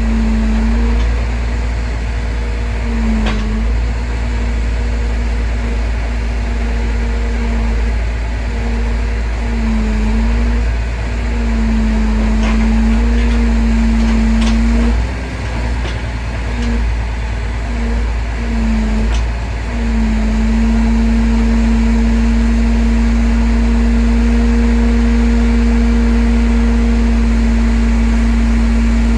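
Truck-mounted crane working: the engine runs with a steady low rumble while a steady whine, typical of the crane's hydraulics under load, cuts in and out repeatedly. The whine holds without a break for the last third or so.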